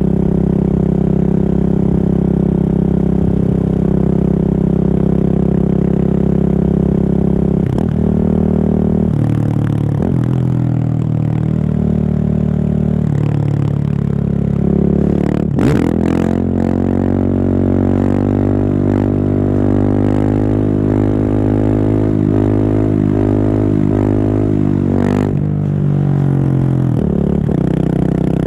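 Husqvarna 701 supermoto's single-cylinder engine running through an open Remus exhaust with the dB killer removed, loud. It holds fairly steady revs for the first half, then about halfway the pitch climbs as it accelerates, with several brief breaks in the note.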